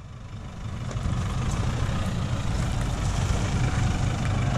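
Nissan Navara pickup's engine running at low revs as it crawls over rocks, a steady low rumble that grows louder over the first second and then holds.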